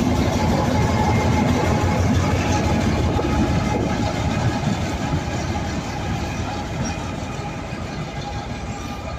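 A train pulling out of a station, its rumble and wheel clatter steady at first and then slowly fading as it moves away.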